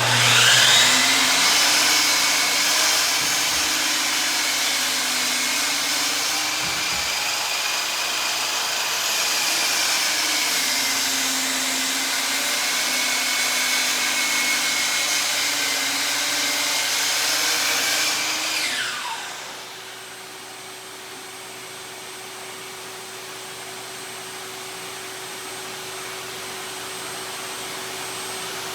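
Miter saw fitted with a Diablo 12-inch 100-tooth crosscut blade switched on with a sudden start and running at full speed for about 18 seconds, its whine shifting slightly in pitch as it makes a test crosscut. It is then switched off and winds down in a falling whine, and a quieter steady hum carries on.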